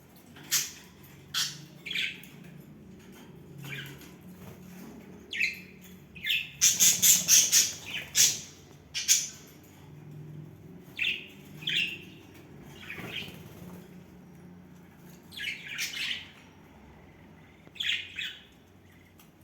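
Pet budgerigars chirping and squawking in short, scattered calls, with a loud flurry of rapid calls about seven seconds in.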